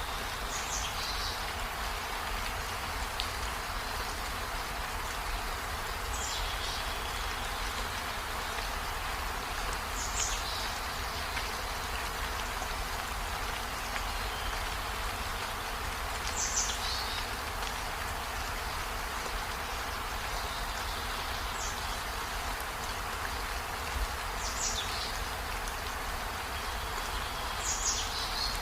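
Steady rain falling on leaves and a surface, an even patter. Short high chirps cut through it every four to six seconds, about seven times.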